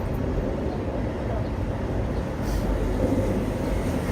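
Hong Kong double-decker tram running along its rails, heard from on board as a steady rumble.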